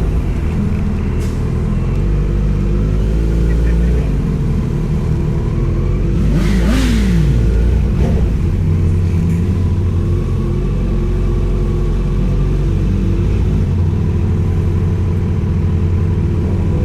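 Kawasaki Z900 inline-four engine running steadily through its exhaust, with one short rise and fall in pitch about six and a half seconds in.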